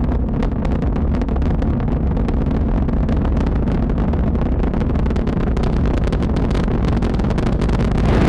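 Space shuttle Atlantis climbing after liftoff: the rocket engines give a steady, deep rumble laced with dense crackling.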